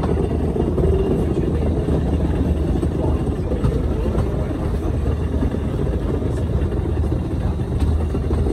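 Electric rack-railway train of the Schynige Platte line running, heard from inside the carriage by its window: a steady low rumble and hum of the motors, rack gear and wheels on the rails.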